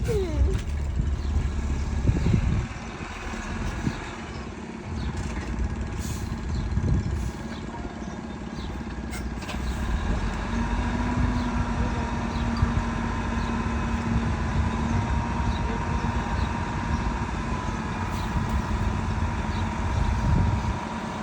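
Diesel engines of heavy construction machinery running steadily, swelling louder a few times in the first few seconds.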